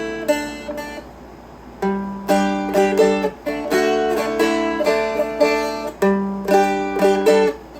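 Seagull Merlin M4 four-string strumstick played with picked notes and chords over a ringing low drone, a short phrase, a brief pause about a second in, then a longer run of notes moving through G and D chord shapes.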